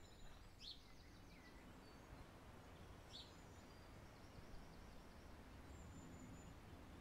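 Near silence with faint, scattered bird chirps and short whistles, a few seconds apart, over a low steady background hiss.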